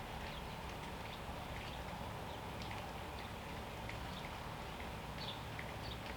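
Small birds chirping in short, quick notes, over a steady background hiss and low hum.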